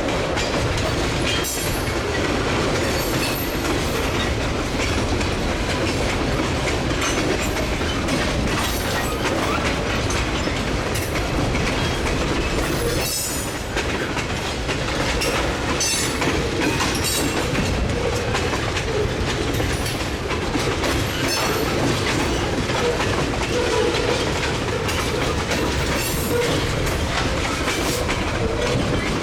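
Freight train of tank cars rolling past, steel wheels clacking over rail joints with a steady rumble.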